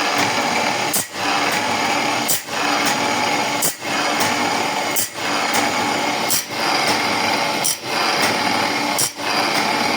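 ESA automatic band saw blade sharpener running: its grinding wheel works the teeth one after another in a steady cycle of about one tooth every 1.3 s. The continuous grinding hiss and machine hum drop briefly with a click at each cycle as the blade is indexed to the next tooth.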